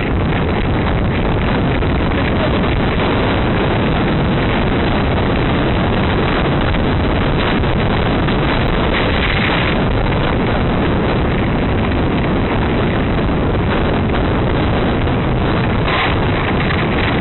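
Heavy wind buffeting the microphone of a camera carried on a moving bicycle, a steady loud rush with tyre and trail noise mixed in.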